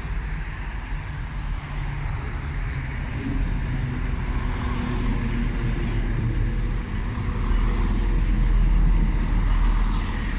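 Low rumble of a diesel engine running, growing louder near the end.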